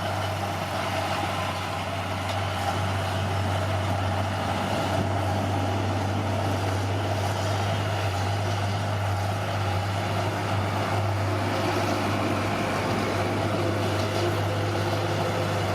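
Heavy diesel engine of earthmoving machinery running steadily under a constant load, with a deep even hum.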